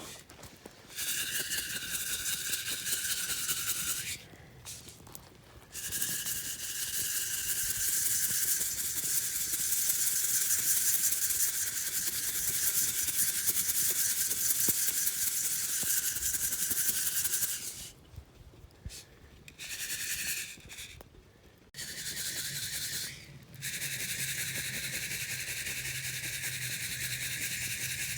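Coffee beans rattling and shushing inside a hand-held wire-mesh roasting net as it is shaken over a campfire, in long spells that stop and start several times.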